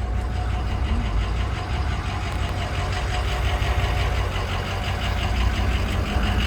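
Ford 6.0 L Power Stroke V8 turbo diesel in a 2005 Excursion, idling steadily.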